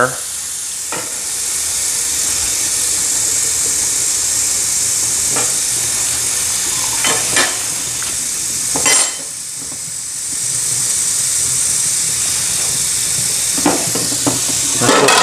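Hot tap water running from a faucet into a carpet cleaner's plastic clean-water tank, a steady hiss. There are a few knocks of the plastic tank, and the flow dips briefly about nine seconds in.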